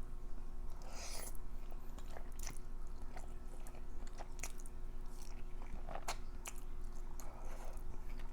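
Close-miked chewing of creamy uni cream pasta, with many small wet mouth clicks and smacks scattered throughout.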